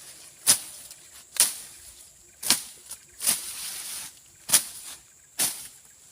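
Hand-swung slashing blade cutting through grass and brush: six sharp swishes, about one a second, as the undergrowth is slashed.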